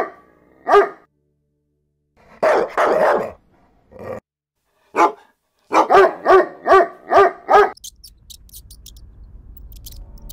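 Dog barking. It gives a few separate barks, then a quick run of about six barks just past the middle.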